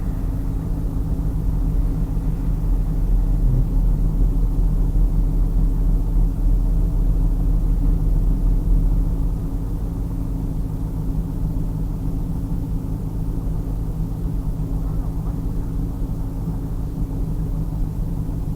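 2000 Pontiac Trans Am Firehawk's LS1 V8 idling steadily with a low, even rumble.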